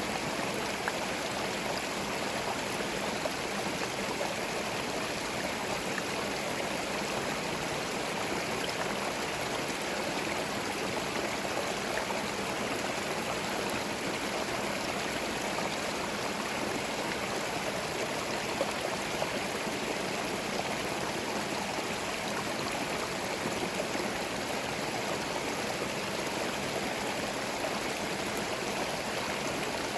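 Small forest stream running over stones, a steady babbling and trickling of water.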